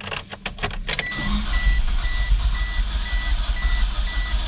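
1995 Mitsubishi Eclipse GST's turbocharged 4G63 engine cranking on the starter without catching, after a few clicks, while a warning chime beeps about four times a second. The engine is said to have no spark.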